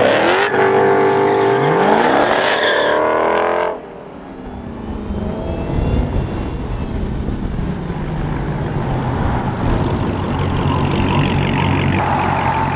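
V8 muscle car engines revving and accelerating, with the pitch climbing several times. About four seconds in the level drops abruptly, and a steadier, quieter engine sound follows.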